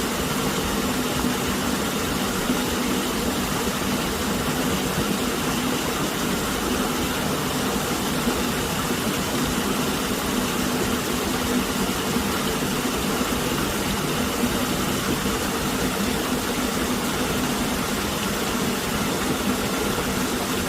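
A steady mechanical hum over an even hiss, unchanging throughout, with no separate events.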